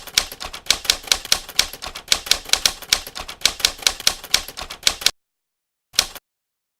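Typewriter keys clacking in a quick, uneven run of keystrokes, about three or four a second, that stops about five seconds in; one last keystroke follows about a second later.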